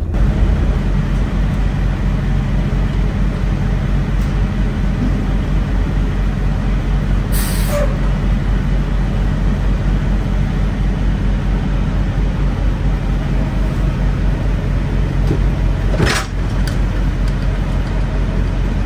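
Semi-truck engine running with a steady low drone while driving, with two brief hisses, one about seven seconds in and a shorter one near sixteen seconds.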